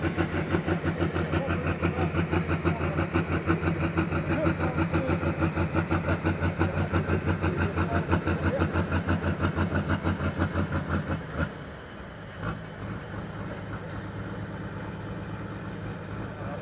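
A pulling tractor's engine idling with an even beat of about four pulses a second. About eleven seconds in it cuts away, leaving a quieter, steady engine hum with a single knock.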